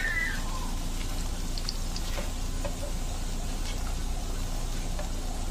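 Battered spinach leaves deep-frying in plenty of oil over a high flame: a steady sizzle, with a few faint clicks of metal tongs.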